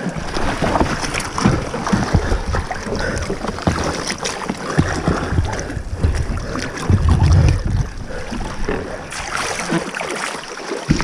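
River water splashing and churning around a small race boat as it is pushed and waded along in the current, with irregular knocks and wind rumble on the microphone.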